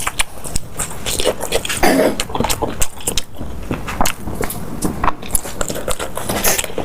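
Close-miked eating sounds: biting and chewing with a dense, irregular run of wet mouth clicks.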